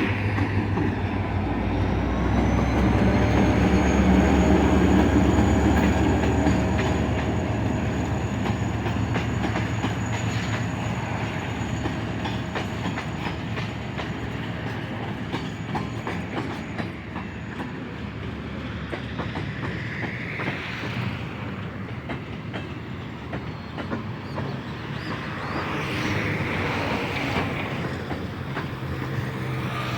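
A freight train passing: the diesel-electric locomotive's engine is loudest a few seconds in and fades by about eight seconds. Then the freight wagons roll by with a steady clickety-clack of wheels over rail joints.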